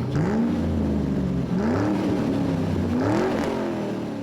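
An engine revving: three blips that rise and fall in pitch over a steady low running note, easing off near the end.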